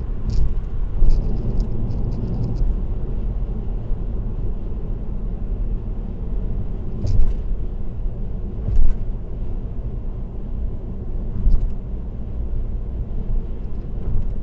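Steady low road and tyre rumble of a car driving on an expressway, broken by a few brief sharp knocks.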